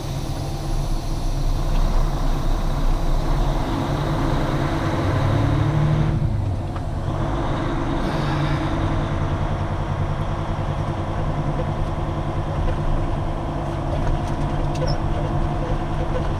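Semi truck's diesel engine running, heard from inside the cab as the truck pulls away, the revs rising and then dropping at a gear change about six to eight seconds in.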